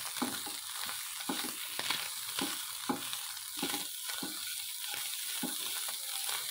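Shredded chicken frying in a pan with a steady sizzle, while a spatula stirs it, scraping and knocking against the pan bottom in irregular strokes several times a second.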